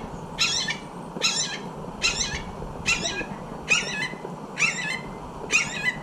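A bird calling over and over: a short, high, harsh call that drops in pitch, about once a second, seven times.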